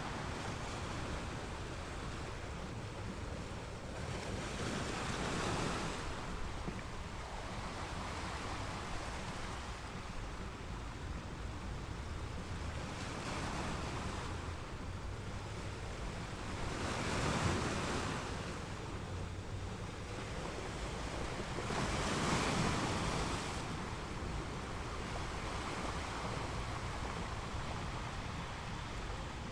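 Ocean waves breaking and washing onto a beach every few seconds, over a steady low rumble of surf.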